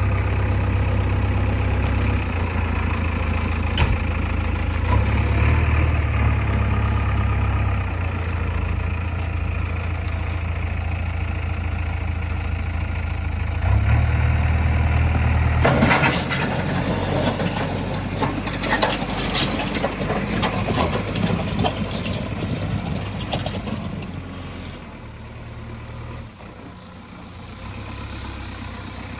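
A JCB 3DX backhoe loader's diesel engine working, its revs rising and falling in steps. About halfway through, a clattering rattle takes over for several seconds as the load is handled.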